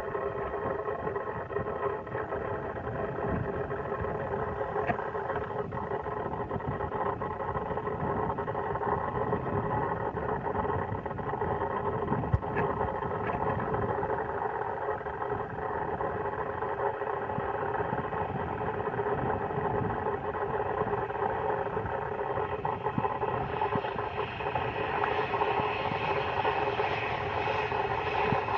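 Embraer 190 jet's twin General Electric CF34 turbofans whining on approach to land, a steady cluster of engine tones over a rushing noise. The sound grows brighter and a little louder over the last few seconds as the jet comes closer.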